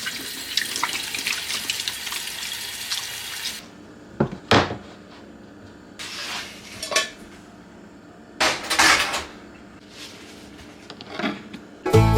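Kitchen tap running into a sink for about three and a half seconds, then several short clatters of dishes and utensils being handled.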